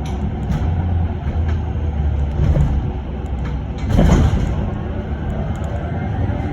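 Cabin noise of a moving electric bus: a steady low road and tyre rumble, with one louder jolt or rattle about four seconds in.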